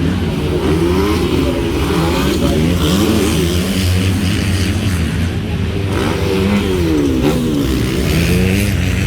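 Several motocross bikes revving on the track, their engine notes rising and falling and overlapping as they accelerate and shift.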